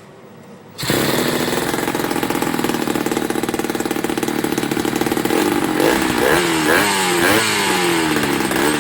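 Rebuilt Puch DS60R two-stroke moped engine starting up about a second in and running steadily, then revved in several quick rising-and-falling blips during the second half.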